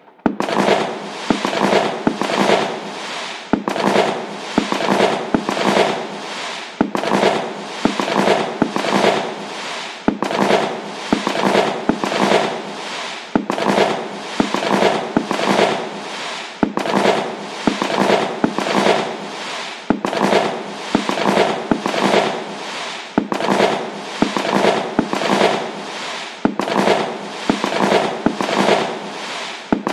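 Fireworks crackling: a dense run of rapid pops and crackles. The same short pass repeats about every three seconds, each one starting loud and tailing off.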